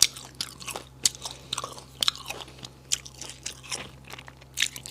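Chewing and crunching of silkworm pupae: a string of sharp, irregular crunches, the loudest right at the start.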